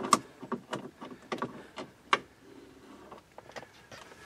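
Sharp, irregular clicks and taps of a hand tool working a stubborn bolt loose inside a car's dashboard, with a brief soft scrape a little after the middle.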